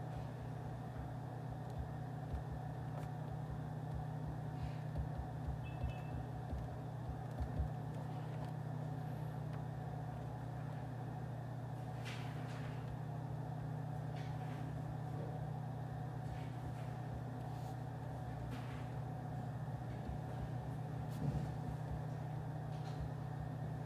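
Steady low hum of office room ambience, with a few faint scattered clicks and taps.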